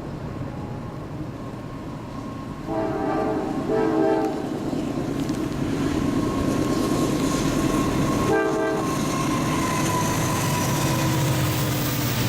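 Diesel freight train approaching, its locomotive engines and rolling cars growing louder. The locomotive horn sounds two blasts about three seconds in and a short third blast about eight seconds in.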